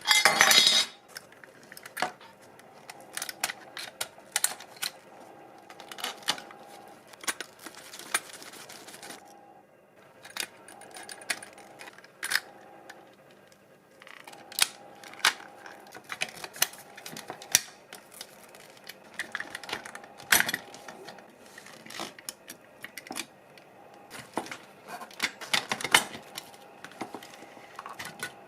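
Irregular light clinks and clicks of small metal parts of a diecast model car being handled and worked on a hard surface.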